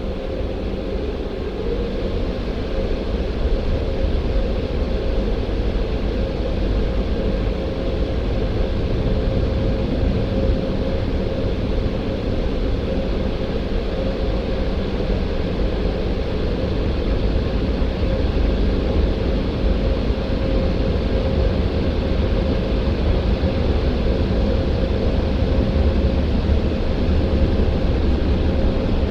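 Christ Auto-Jet C115 car wash machine running, heard from inside the car: a steady low rumble and rushing noise with a steady hum, growing slightly louder over the first few seconds.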